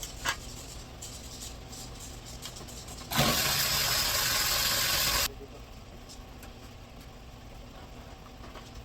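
A burst of compressed air hissing steadily for about two seconds, starting and stopping abruptly, from an air tool or air line used while the radiator is being unbolted. A small click comes just before it.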